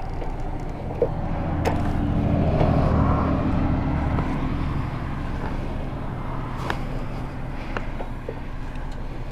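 Motorcycle engine running steadily at low revs. It swells in loudness about two to three seconds in and then settles back, with a few light clicks over it.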